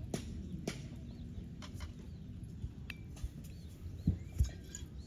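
Outdoor ambience: a steady low rumble with a few short, high bird chirps and scattered light knocks, the loudest two knocks a little after four seconds in.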